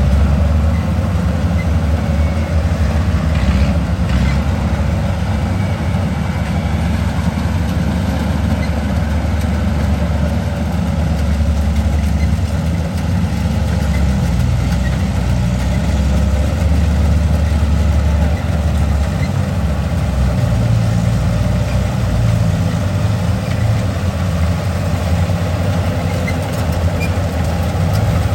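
Diesel engine of a Kubota rice combine harvester running steadily while harvesting, a constant low drone.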